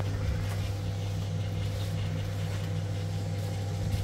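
Steady low mechanical hum, even and unchanging, like a running engine or motor.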